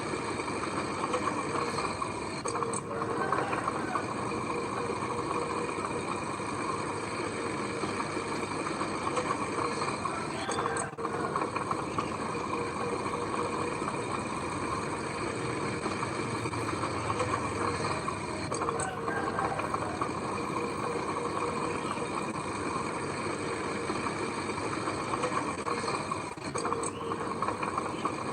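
Heavy diesel machinery engine running steadily, with a few brief knocks.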